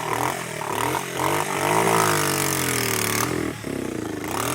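Small off-road vehicle engine being revved, its pitch rising and falling, highest about two seconds in, with a brief drop around three and a half seconds before it picks up again.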